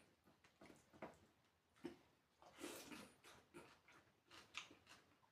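Soft eating sounds: irregular small clicks and wet smacks of chewing, with a longer, louder stretch of chewing or slurping about halfway through.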